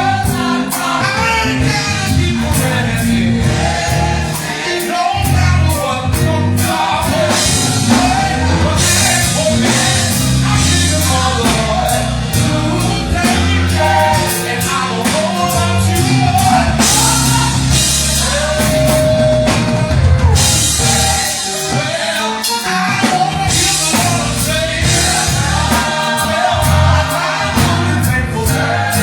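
Gospel choir singing with a live band: bass, drum kit with cymbal crashes, and keyboard.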